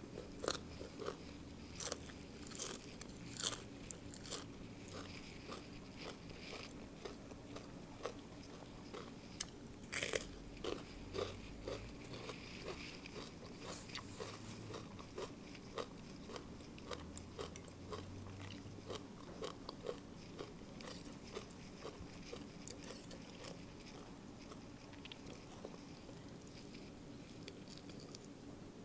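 A person chewing and crunching a mouthful of Thai papaya salad at close range, with many short crisp crunches. They are loudest in the first few seconds and again around ten seconds in, then settle into softer chewing.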